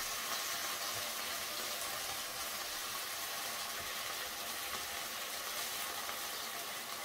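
Mustard-paste curry sizzling and bubbling steadily in a kadai on the gas flame, a little water just added to it, as it is stirred with a plastic spatula.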